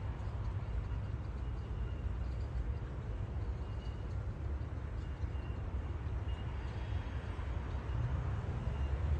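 Electric intercity train approaching a station: a steady low rumble that grows a little louder near the end as it draws closer.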